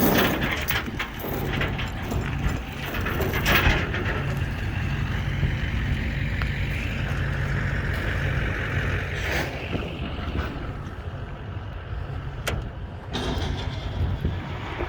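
A vehicle engine idling steadily, with a few knocks and clanks over it.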